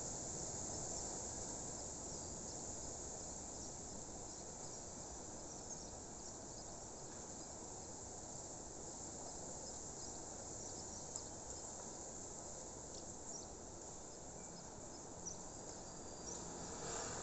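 Crickets chirping in a steady, continuous high chorus, with a few faint short chirps dotted through it.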